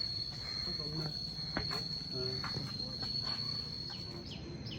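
Steady, high-pitched insect trill, with faint voices and a few short falling chirps near the end.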